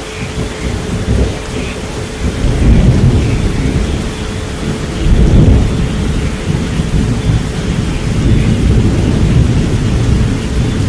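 Rolling thunder over steady rain, with a steady pure tone at about 432 Hz underneath. The thunder swells about three seconds in and again around five seconds.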